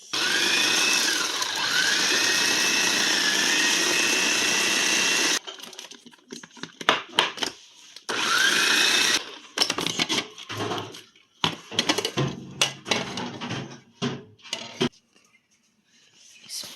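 Electric mixer beating a cream cheese mixture in a bowl: a steady motor run of about five seconds, its whine wavering up and down in pitch, then a second short run about eight seconds in. Between and after the runs come scattered clinks and knocks of utensils against the bowl.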